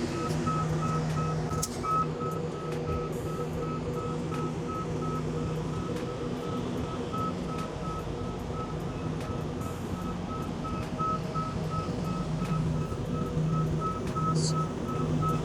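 A truck's reversing alarm beeping steadily, about two beeps a second, over the engine running.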